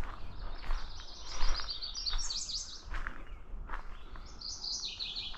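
A songbird singing two phrases of rapid, high chirping notes that step up in pitch, the second phrase starting about four seconds in, with a few soft footsteps.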